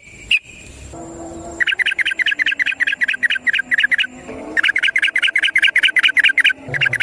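Yellow-vented bulbul (trucukan) singing its long rapid rattling 'ropel' song: fast repeated chirps, about six a second, in bouts that start under two seconds in, break briefly around four seconds, stop again shortly before the end, then resume.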